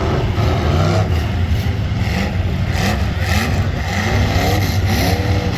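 Demolition derby car engines running with a steady low rumble, revving up and down repeatedly from about three seconds in.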